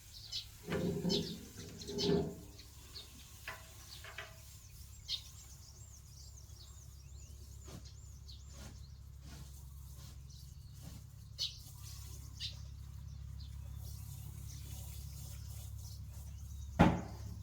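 Small birds chirping in short repeated series, with a couple of clattering knocks in the first few seconds, scattered light clicks, and one sharp loud knock near the end, over a steady low hum.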